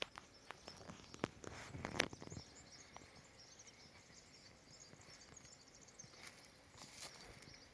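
Faint rural outdoor ambience: many short, high chirps, with a few sharp knocks in the first two seconds.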